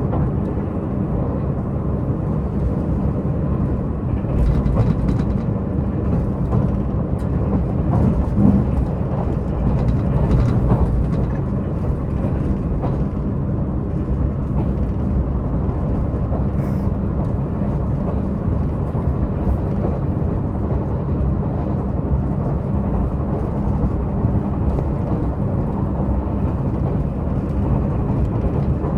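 Diesel multiple-unit express train running steadily, heard from inside the passenger car: a steady low diesel-engine drone mixed with wheel-on-rail rumble, with a few faint clicks.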